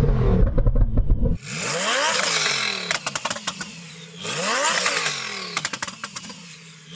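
Tuned Lamborghini Huracán Performante's twin-turbocharged 5.2-litre V10 revved repeatedly at standstill. Each rev rises and then dies away into rapid crackling exhaust pops, "fireworks". It is heard inside the cabin at first, then close behind the exhaust from about a second and a half in.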